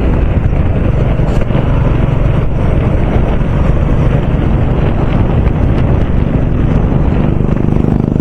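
Wind buffeting the microphone of a Royal Enfield Bullet riding at road speed, with the single-cylinder engine running steadily underneath.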